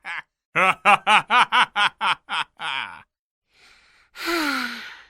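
A person laughing in a quick run of ha-ha pulses that tail off, then a short breath in and a long sigh, falling in pitch, about four seconds in.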